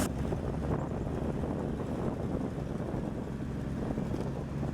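A 1962 Ford F-350 farm truck's engine idling steadily with a low hum.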